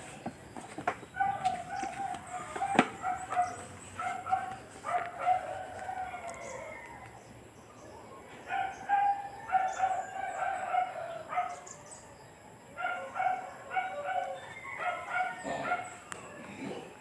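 Bird calls: runs of short, repeated notes lasting a few seconds each, with pauses between.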